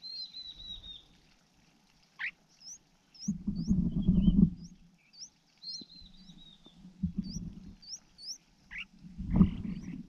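Small birds chirping: a run of short, high rising chirps, with a descending trilled call at the start and again a little past halfway. Bursts of low rustling and thumping, the loudest sounds, come about three seconds in, around seven seconds, and near the end.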